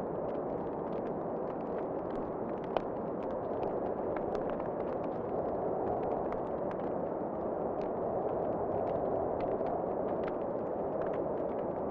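Wood fire crackling in a fireplace, with scattered small pops over a steady rushing roar, and one sharper pop a little under three seconds in.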